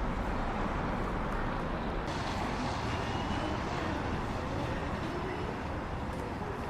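Steady rumble and hiss of city traffic, with no single vehicle standing out.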